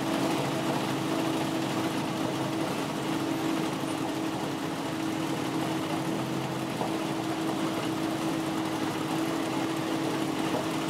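Rally car engine idling steadily, with one constant, unchanging tone.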